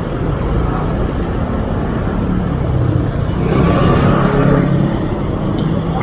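Road traffic heard from a moving bicycle: a steady low rumble of wind and road noise, with a motor vehicle passing close, loudest about four seconds in.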